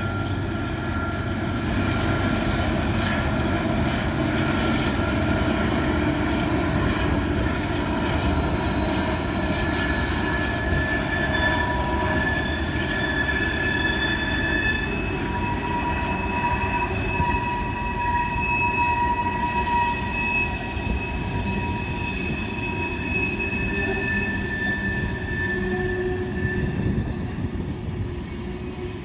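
Freight train rolling through a tight mountain curve, its wheel flanges squealing against the rails in long, steady high tones that come and go at different pitches, over the continuous rumble of the cars.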